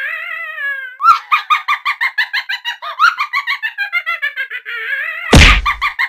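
A woman's high-pitched, rapid giggling, a steady run of short pulses about seven a second. A loud thump about five seconds in.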